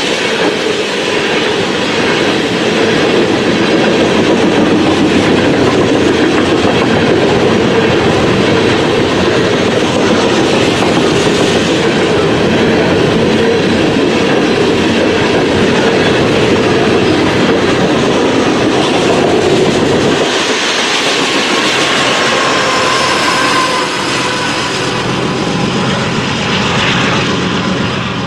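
Freight train rolling past, its cars making a steady, loud rumble on the rails. About two-thirds of the way through the rumble thins out, and faint high thin tones from the wheels follow.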